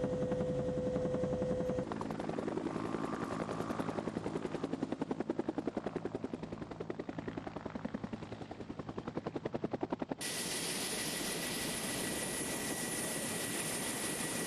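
Helicopter rotor chopping in a rapid, even rhythm. About ten seconds in, the sound cuts abruptly to a steady rushing hiss with a thin high whine.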